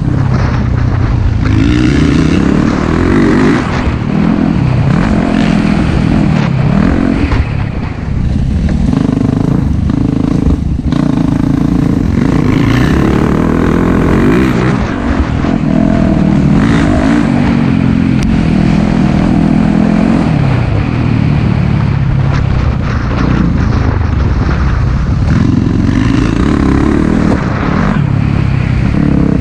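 Four-stroke dirt bike engine being ridden on a trail, the revs climbing and falling every few seconds with throttle and gear changes. It is briefly let off about eight seconds in and again halfway through.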